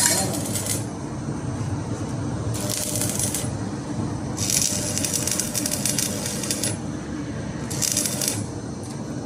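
Metalworking in a blacksmith's shop while an iron trivet is made: four bursts of harsh, hissing metal noise of varying length, over a steady low hum.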